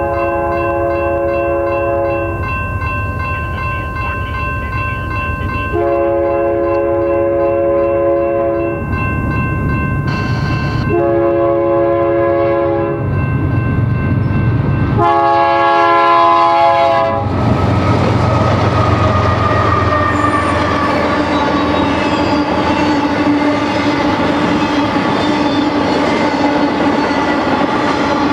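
Diesel freight locomotive's air horn sounding the grade-crossing signal, long, long, short, long, over a grade-crossing bell ringing rapidly. From about two-thirds of the way in, the train passes close by: locomotive rumble, then intermodal flatcar wheels clattering over the rail joints.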